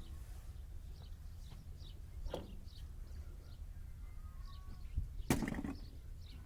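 Faint bird chirps over a steady low rumble, with a light knock about two seconds in and a louder sharp clack about five seconds in.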